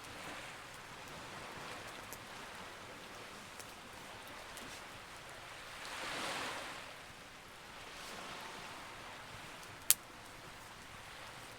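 Sea waves washing, with one swelling surge about six seconds in, over a faintly crackling wood fire that gives one sharp, loud pop near the end.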